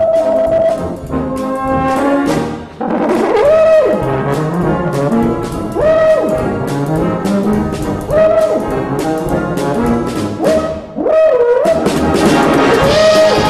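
Euphonium solo with brass band accompaniment. The solo line swoops down and back up in repeated glides about every two seconds, over short, detached chords from the band.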